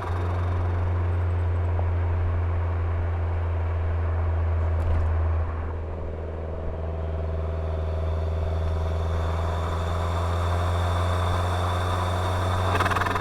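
Lancia Delta Integrale 16V's turbocharged four-cylinder engine running as the car drives, with a steady low drone. It eases off about five seconds in, then builds again gradually toward the end.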